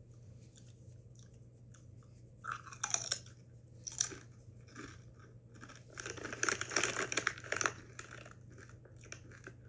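Someone crunching and chewing Golden Sriracha Doritos tortilla chips: crisp crackling bites in clusters, a short one about two and a half seconds in, a brief one around four seconds, and a longer run of chewing between about six and seven and a half seconds.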